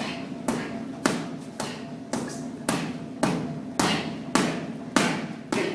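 Gloved punches landing on hand-held striking pads in a steady rhythm, about two sharp smacks a second.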